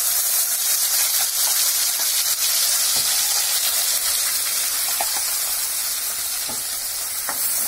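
Wet ground masala paste sizzling in hot oil in a nonstick kadhai as it is spooned in, a steady hiss with a few faint clicks of the spoon against the pan.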